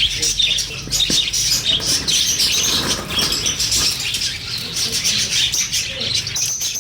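A crowd of small cage birds chirping continuously, many calls overlapping.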